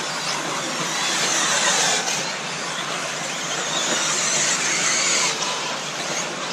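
Electric RC off-road buggies racing: a high-pitched motor whine mixed with tyre noise on dirt, swelling as cars pass, loudest about one to two seconds in and again around four to five seconds in.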